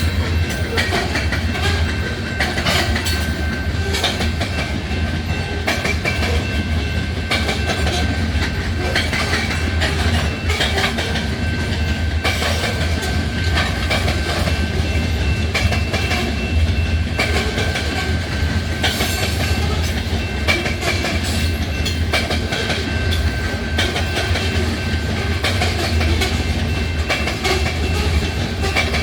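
Freight train of hopper cars rolling past, its wheels clicking steadily over the rail joints, with a thin, steady high tone over the rumble.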